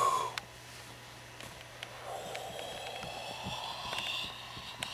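A person breathing out a long, breathy huff about two seconds in, blowing breath out to have it smelled. A short sound falls in pitch at the very start, and a few faint clicks are heard.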